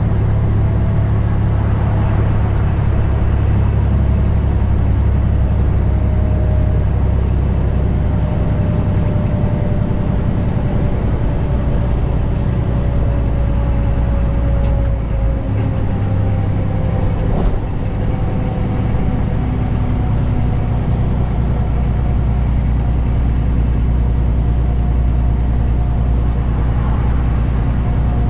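Detroit DD15 diesel engine of a 2021 Western Star 4900 semi truck running with a steady deep rumble, a faint whine above it slowly falling in pitch. About halfway through the rumble briefly dips, and a sharp click follows shortly after.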